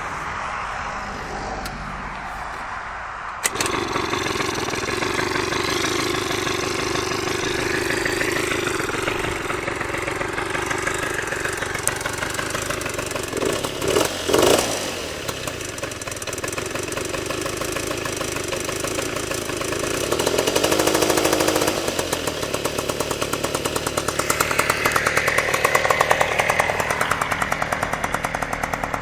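Piaggio TPH scooter engine being started after a week of standing. It catches about three and a half seconds in, then runs, with several rises in revs as the throttle is opened.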